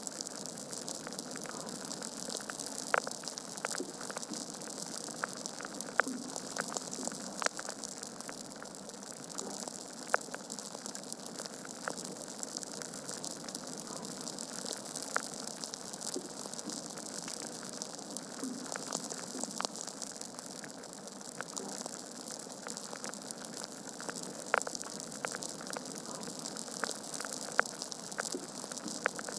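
Wood fire burning in a fireplace: a steady hiss with frequent sharp crackles and a few louder pops from the burning logs.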